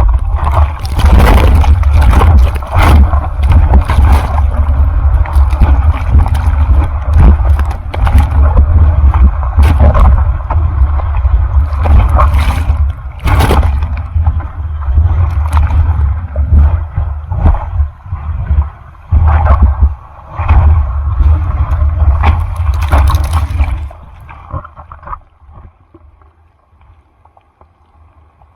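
Water splashing and sloshing over a microphone in rough typhoon surf, with a heavy low rumble of buffeting and many sharp knocks. It drops off suddenly about 24 seconds in to a faint wash of water.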